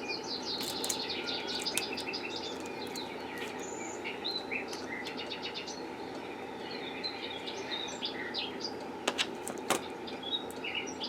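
Small birds chirping over a steady background hum, with two sharp clicks near the end.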